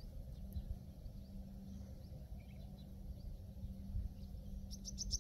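Faint uneven low rumble with a steady low hum underneath. Near the end a bird starts a quick run of rising high chirps, several a second.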